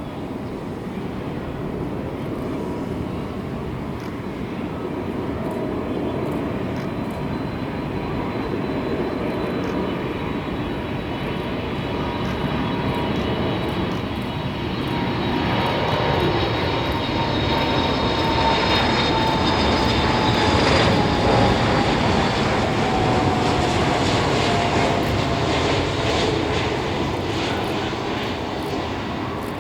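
Boeing 747-400's four jet engines as the jumbo jet passes: a rumble that builds steadily and peaks about two-thirds of the way through, with an engine whine that slides down in pitch as the plane goes by, then eases off slightly.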